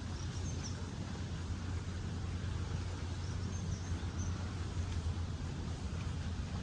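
Outdoor riverside ambience: a steady low rumble under a wash of noise, with a few faint, short, high bird chirps about half a second in and again around three and a half seconds in.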